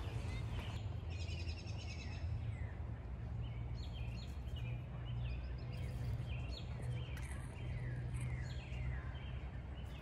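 Birds singing in woodland: a fast trill about a second and a half in, then a run of short, falling chirps repeated again and again. A steady low rumble lies under it throughout.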